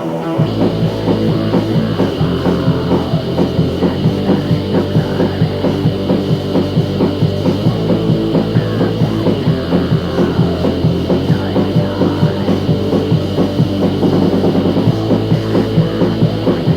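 Rock music: a full band with drum kit comes in about half a second in and keeps a steady, driving beat of about four strokes a second.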